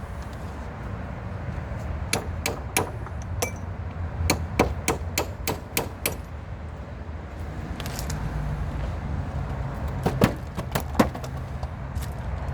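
Hammer strikes ringing on metal, knocking bolts through a wooden gate: a few blows, a quicker run of about half a dozen, then a few more after a pause, over a steady low rumble.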